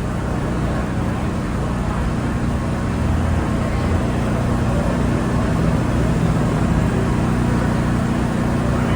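Steady low mechanical hum over a continuous wash of road-traffic noise, growing a little louder about three seconds in.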